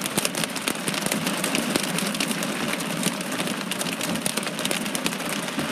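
Heavy downpour of rain pelting the car, heard from inside: a dense, steady patter of countless drop impacts.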